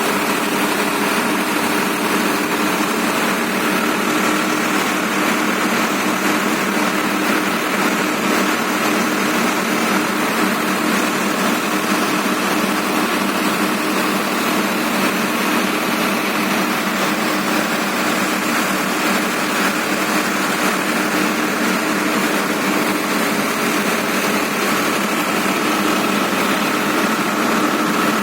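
Farmtrac tractor's diesel engine running steadily at an even speed, with a constant hum and no change in pace.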